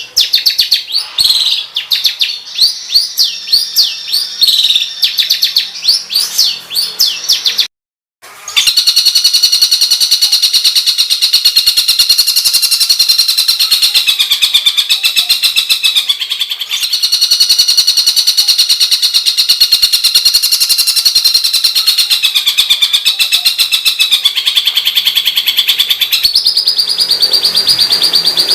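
Songbird singing harsh, rapid-fire notes ('tembakan kasar'): a run of quick rising chirps, a brief break about eight seconds in, then a long, very fast rattling trill that dips in pitch now and then.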